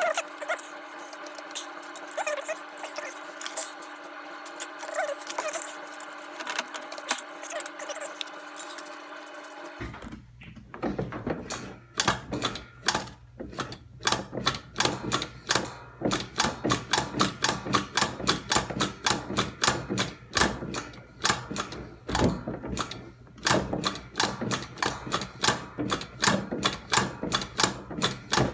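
Steady hum for about ten seconds, then, after an abrupt change, repeated sharp clicks and light knocks, a few a second with quicker runs, continuing to the end.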